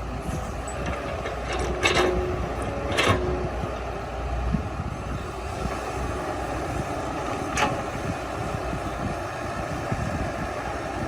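Komatsu D21P bulldozer's diesel engine running steadily under work, with three short metallic clanks about two, three and seven and a half seconds in.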